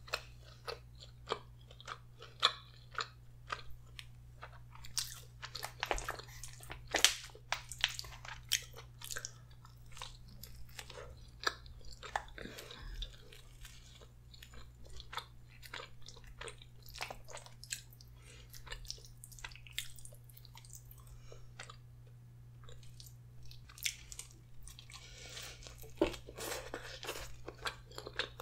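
Close-miked eating: a person biting and chewing soft garlic bread, with irregular sharp mouth clicks and smacks throughout.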